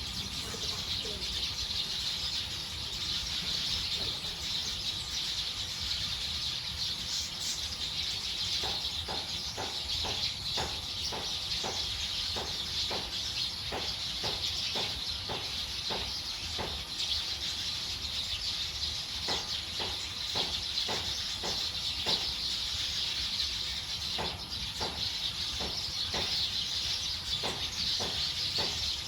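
A dense chorus of many birds chattering together as they settle to roost. From about a third of the way in, short sharp notes repeat roughly twice a second over the chatter.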